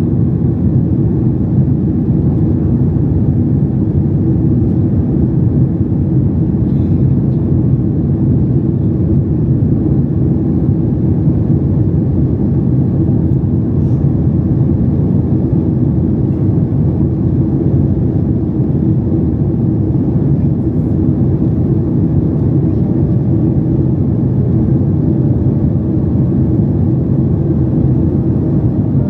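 Steady low rumble of cabin noise inside a Boeing 737 MAX 8 with its CFM LEAP-1B engines running.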